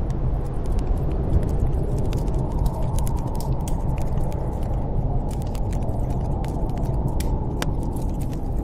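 Steady low rush of snowstorm wind, with sharp crackles and pops of wood burning in a fireplace scattered throughout.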